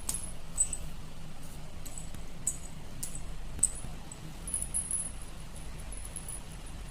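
Silver anklets (payal) with only a few small ghungroo bells jingling as the feet move: short, scattered high tinkles, a cluster of them about four and a half seconds in, over a steady low background hum.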